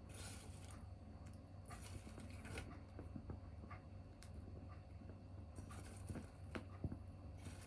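Small tabletop wood fire crackling, with irregular sharp pops and snaps over a steady low hum.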